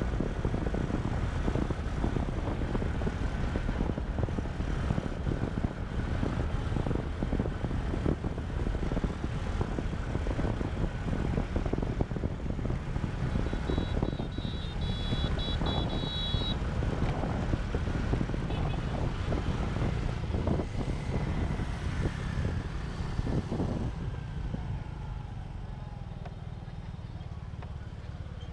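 Motorcycle riding at speed: engine and road rumble under heavy wind buffeting on the camera microphone. A brief high pulsing tone sounds about halfway through, and the wind and rumble ease off for the last few seconds.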